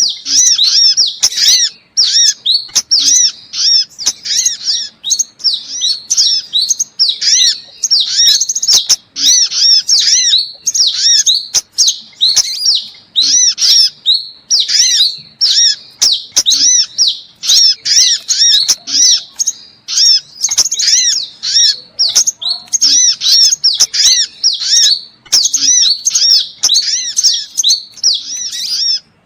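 Sunbird calls played as a bird-catching lure recording: rapid series of high, thin chirps, repeated in bursts with short breaks throughout.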